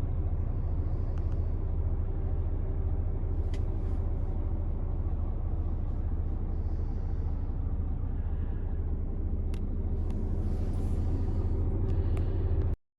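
Renault T460 tractor unit's six-cylinder diesel engine idling steadily, with a few faint clicks over it. The sound cuts off suddenly near the end.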